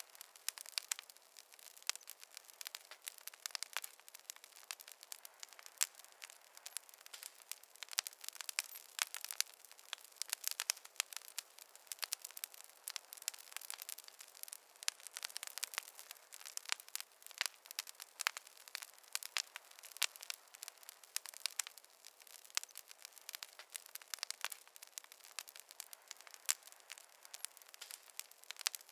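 Wood campfire crackling, with many sharp, irregular pops and snaps over a faint hiss.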